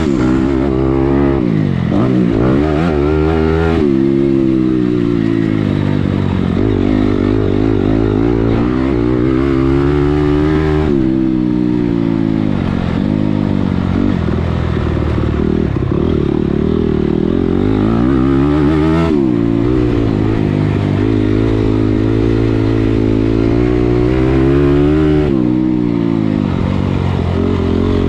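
Motocross dirt bike engine ridden hard, the revs climbing and falling again and again as the rider accelerates, shifts and backs off, with a few sharp drops in revs.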